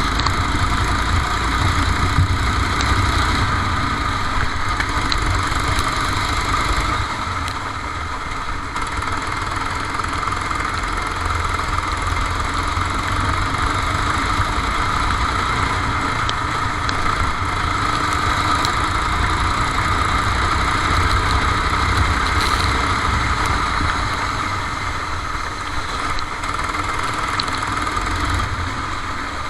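Kart engine running steadily under racing, heard onboard. The level drops briefly about a quarter of the way in and again near the end.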